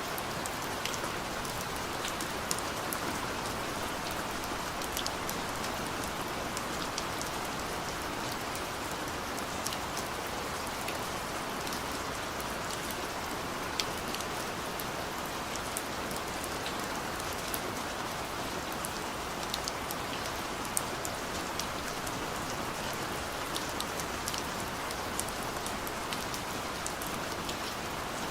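Heavy rain pouring steadily: an even hiss with many sharp drop ticks scattered through it.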